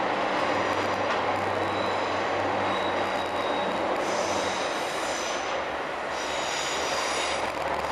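Northern Ireland Railways diesel multiple unit pulling away, its engine and wheels on the rails running steadily. About halfway through, a high-pitched wheel squeal comes in as it takes the curve.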